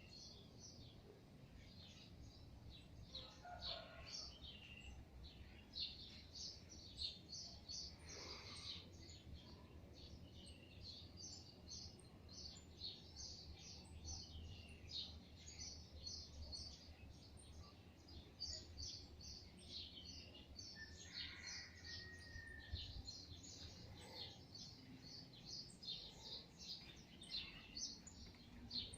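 Faint, continuous chirping of small birds, many short calls overlapping, over a low steady background hum.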